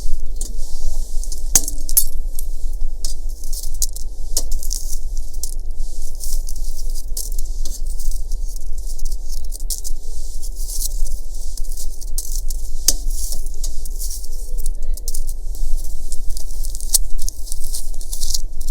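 Dense, steady crackling and sizzling from food cooking over a wood fire, with sharp single pops here and there.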